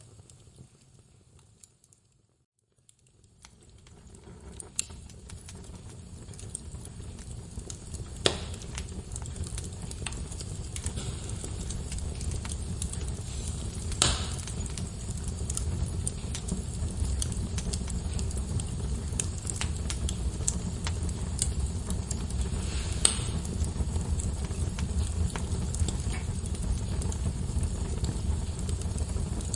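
Wood fire burning in a fireplace, a low rumble with steady crackling and a few sharp pops. It fades to near silence about two seconds in, then fades back up.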